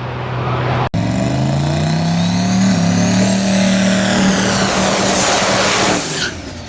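Turbocharged diesel drag-racing truck accelerating hard down the strip: the engine note climbs in pitch and levels off while a high turbo whine rises steadily above it, and the sound cuts off abruptly near the end.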